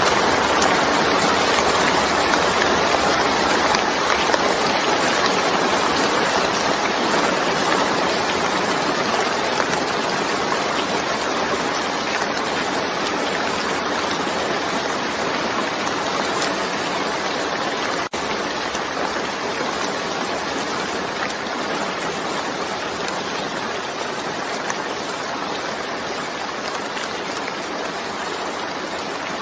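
Steady rain falling, a dense even hiss of water that slowly grows a little quieter, with a momentary dropout about eighteen seconds in.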